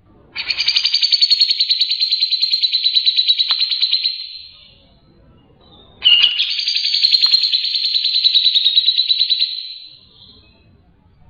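Cucak jenggot (grey-cheeked bulbul) singing two long, rapid, rattling trills of about four seconds each, the second starting about six seconds in, each tailing off at the end.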